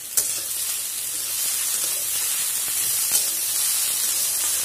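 Dheki shaak (fiddlehead fern greens) sizzling in hot mustard oil in a kadai, a steady hiss. A spatula stirs the greens, with a couple of sharp clicks against the pan near the start and about three seconds in.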